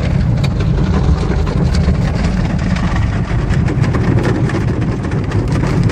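Automatic tunnel car wash heard from inside the car: a steady low rumble with many fast, irregular slaps and spatters of the cloth strips and water against the car body.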